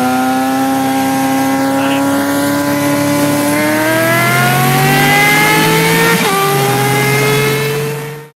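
A high-revving engine accelerating hard. Its pitch climbs steadily, rises faster from about three and a half seconds in, and drops sharply with an upshift just after six seconds. It then climbs again before the sound fades out and cuts off at the end.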